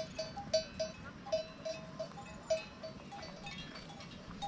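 Bells worn by grazing flock animals, clanking in an irregular jangle of many short ringing strokes.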